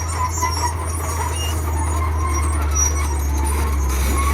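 Radio-controlled model trucks running with a steady low engine-like hum, with faint higher whirring and clicking over it.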